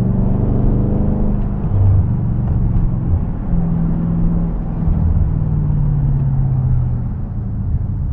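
Audi S7 twin-turbo engine running as the car drives, a low steady hum whose pitch shifts a few times and sags gently in the second half.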